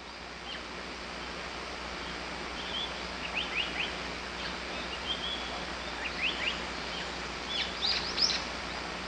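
Wild birds calling in short, sharp chirps that come in small clusters, over a steady outdoor hiss; the loudest cluster comes near the end.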